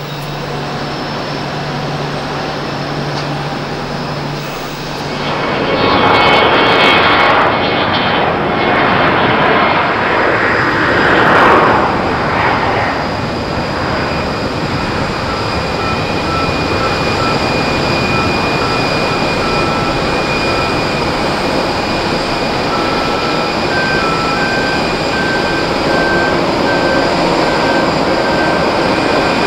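Jet airliner engines passing close by, loudest from about six to twelve seconds in. The engine noise then settles into a steady sound with a thin high whine.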